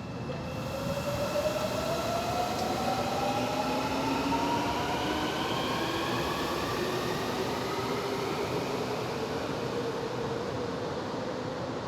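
Busan Metro Line 3 train running, its motor whine rising steadily in pitch as the train accelerates, over the rumble of wheels and carriage.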